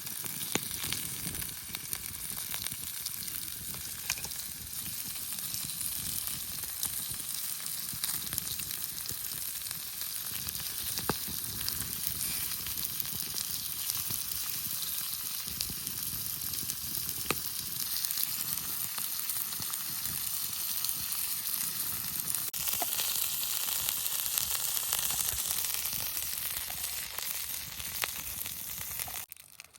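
Burger patty sizzling on a hot stone over a campfire: a steady frying hiss with occasional sharp pops, growing a little louder about three-quarters of the way through and cutting off suddenly near the end.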